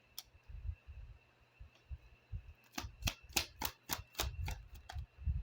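Oracle cards being handled and laid out on a table: soft low thuds, then a quick run of sharp clicks, about four a second, over the last two to three seconds.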